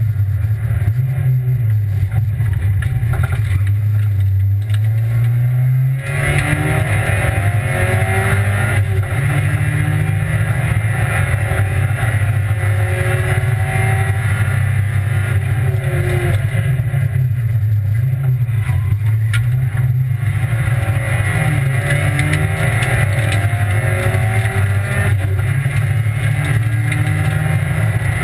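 Rally car engine driven hard through the gears, heard from inside the cabin: the note climbs and drops back at each change, and about six seconds in it turns harsher and louder.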